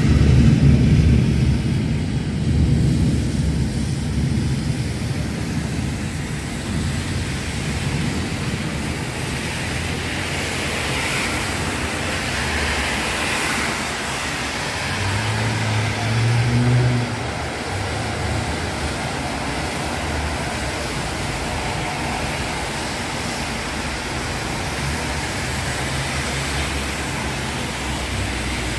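Steady heavy rain, with the swish of traffic on the wet road. A loud low rolling rumble of thunder in the first few seconds dies away, and a vehicle engine hums briefly about halfway through.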